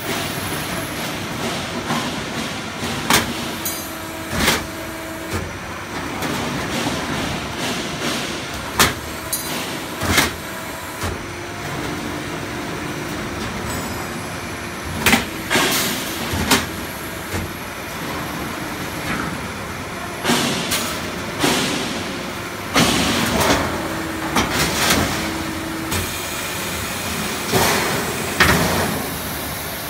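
Automatic sheet-metal HVAC duct production line running, with steady machine noise, a motor hum that switches on and off, and sharp knocks every one to few seconds.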